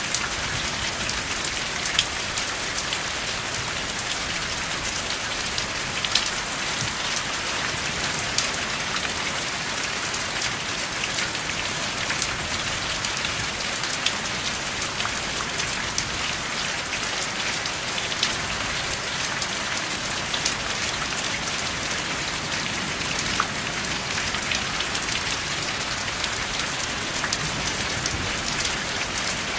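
Steady rain without thunder, a constant hiss of falling rain with individual drops ticking sharply here and there.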